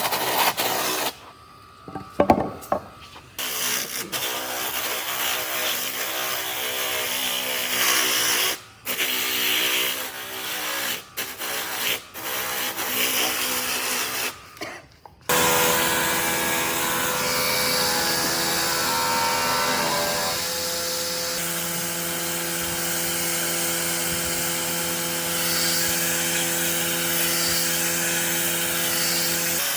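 Electric power tool running and working wood. The first half comes in short chopped pieces; from about halfway it runs steadily with an even motor hum.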